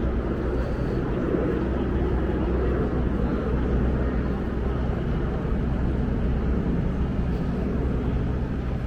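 Steady city ambience: a constant low hum with an even wash of noise and indistinct voices.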